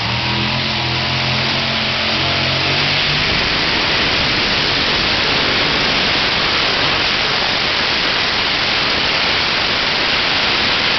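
Pulling truck's engine running flat out under load during a tractor-pull run, loud and steady. Its pitched engine note is clear for the first three seconds or so, then blurs into a dense wall of noise.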